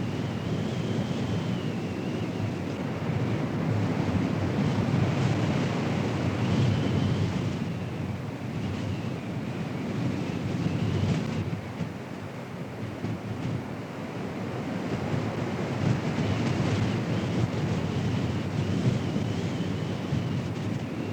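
Strong storm wind buffeting the microphone: a dense rushing roar that swells and eases every few seconds, with a faint high wavering tone running through it.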